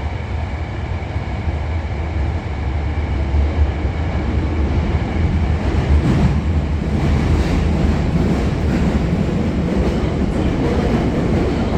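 Osaka Metro Sakaisuji Line subway train running, heard from inside the passenger car: a steady low rumble from the wheels and running gear, with a few faint rail-joint clicks. It grows a little louder about halfway through.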